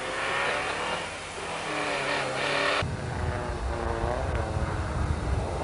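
Rally car engine revving, its pitch rising and falling. A little under three seconds in, the sound abruptly changes to a heavy, rough low rumble.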